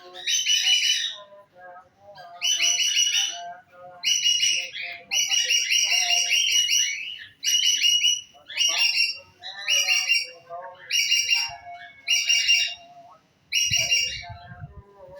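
Songbird singing: about ten loud, high trilled phrases in quick succession, each up to a second or so long, with softer lower chirps between them. A brief low rumble comes near the end.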